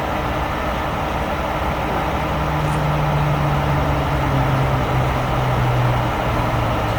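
Century 1075 rotator wrecker on a Peterbilt chassis running while its winches work a heavy lift, a steady machine noise. A low hum comes in about two seconds in and drops in pitch in two steps near the end.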